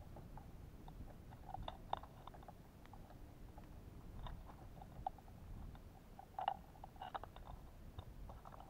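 Faint, irregular tapping and cracking as birds peck at the feeder and crack sunflower seeds close to the microphone.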